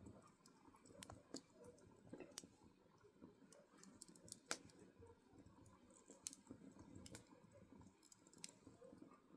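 Burning firewood crackling faintly, with irregular sharp pops and snaps over a soft low rustle of the flames; the loudest pop comes about halfway through.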